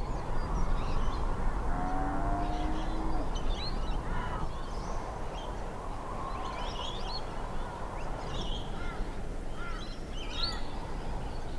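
Several birds chirping and calling against a steady background of outdoor noise. About two seconds in, a low steady tone sounds for about a second.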